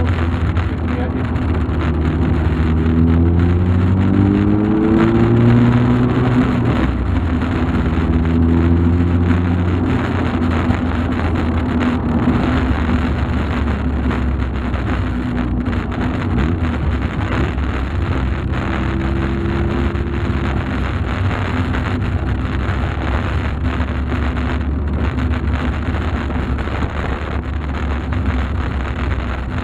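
Volkswagen Golf Mk2 driving, heard from inside the car: the engine note rises under acceleration over the first few seconds, falls back at a gear change, then holds fairly steady over constant road and tyre noise.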